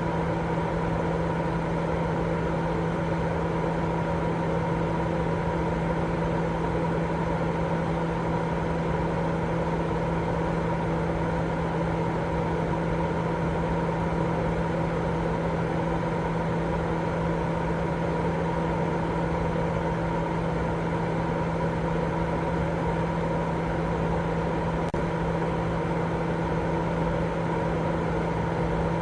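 Continuous baby-sleep white noise, a steady, unchanging rushing hiss with a low hum running through it.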